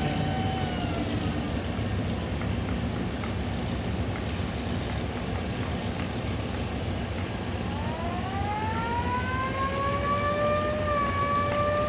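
Siren wail: a held tone that sags and dies out in the first second, then a steady noisy background, then the siren winding up again from about two-thirds of the way in, its pitch rising and levelling off into a steady two-toned wail.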